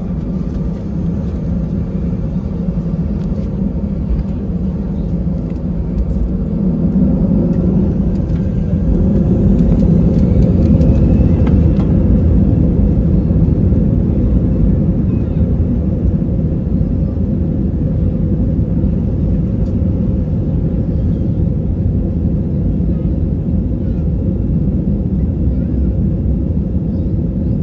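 Steady low rumble of an Airbus A320-200's engines and airflow heard inside the passenger cabin, swelling louder about seven to ten seconds in and then holding.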